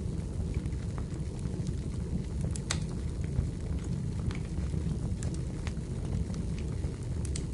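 Wood fire burning in a fireplace: a steady low rumble with scattered crackles and pops of the burning firewood, one sharper pop a little under three seconds in.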